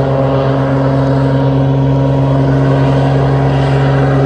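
Propeller airplane taking off, its engine droning at a steady pitch and growing slightly louder.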